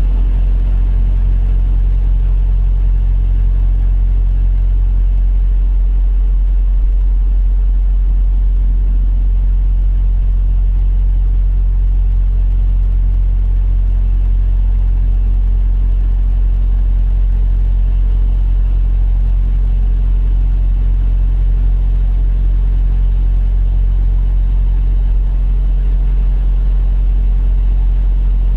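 Truck diesel engine idling, a steady low rumble that holds even throughout.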